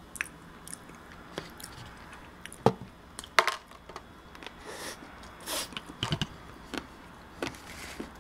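Close-miked mouth sounds of chewing soft chocolate cake, with wet smacking. They are broken by sharp clicks and taps of metal cutlery, two loud ones about three seconds in.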